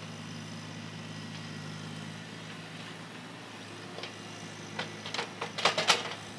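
An engine, most likely construction equipment, idling steadily. From about four seconds in there is a run of sharp knocks and clanks, loudest near the end.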